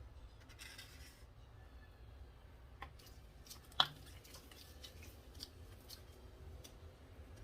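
Faint handling sounds from craft work: a short rustle near the start and a few sharp clicks, the loudest about halfway through.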